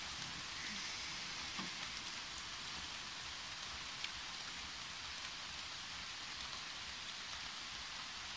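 Light rain falling steadily on leaves and grass, a soft even hiss with a few faint drip ticks.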